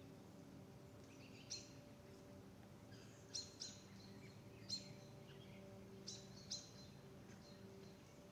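Faint woodland quiet broken by about six short, high bird chirps, some in quick pairs.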